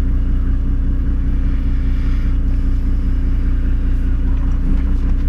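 4WD's engine running steadily at an even low pitch, heard from inside the cabin.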